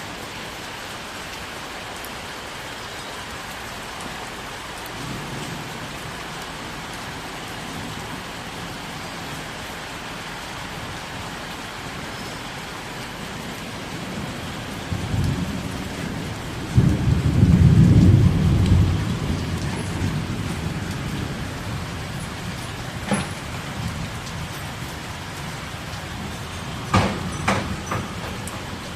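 Steady rain falling. A low rumble swells a little past halfway and is the loudest part, and a few sharp knocks come near the end.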